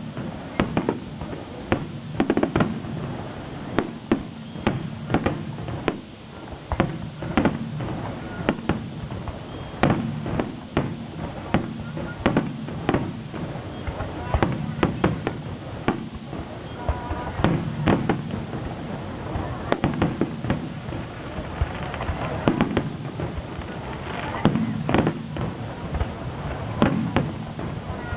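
Aerial fireworks bursting: a long run of sharp bangs at irregular intervals, often several a second, some followed by crackling.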